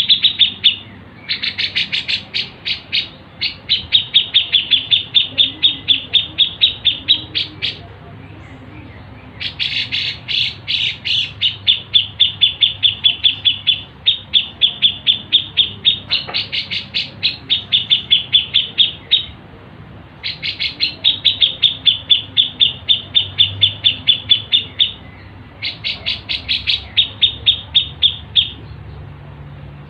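Songbird chirping in fast runs of repeated sharp notes, about six a second, in phrases of a few seconds with short pauses between them.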